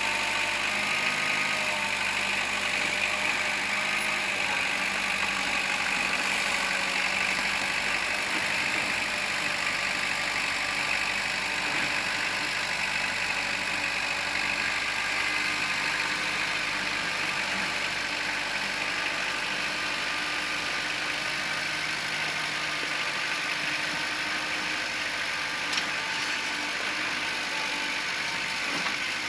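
Kubota compact tractor's diesel engine running steadily.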